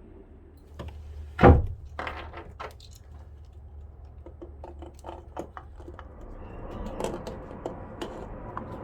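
Metal knocks and clicks as a replacement starter motor is offered up and seated against its mounting flange on a Yanmar 3QM30H marine diesel, with one loud clunk about one and a half seconds in and lighter taps and scrapes after it.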